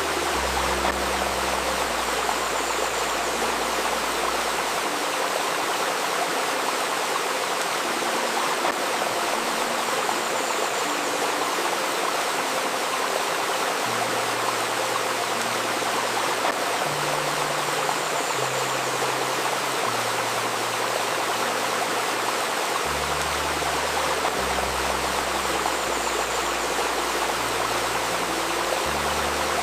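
Babbling river water flowing steadily, with a faint steady tone near 528 Hz and soft, low sustained notes that change pitch every few seconds underneath.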